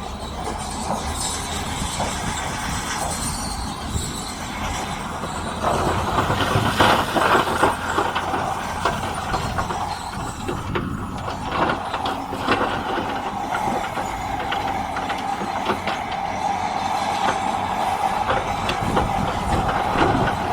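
Heavy diesel earthmoving machine working rock: the engine runs under load with a continuous clatter of clanks and scrapes from metal and stone. The engine note strengthens about six seconds in.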